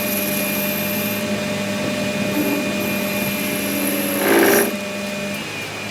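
A power tool running steadily with a constant hum, with a short, louder burst of noise just after four seconds in; the hum stops shortly before the end.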